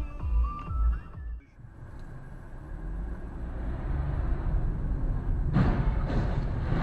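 A thumping dance beat stops about a second in, then the low steady rumble of a car driving builds up. Two short loud noises come through near the end.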